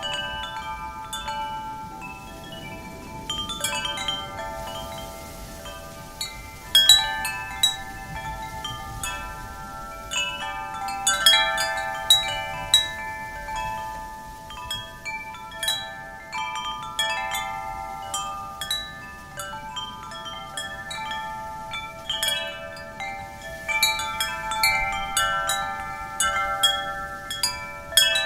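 Wind chimes ringing: many metal tubes struck irregularly several times a second, their overlapping tones sustaining and fading into one another.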